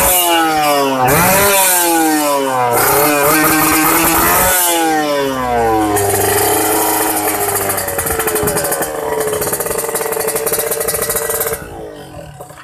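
Kawasaki Ninja RR two-stroke single revved through a CMS big-volume aftermarket exhaust: about three throttle blips, the pitch climbing and then falling back each time, followed by steadier running at a higher idle that drops away sharply near the end.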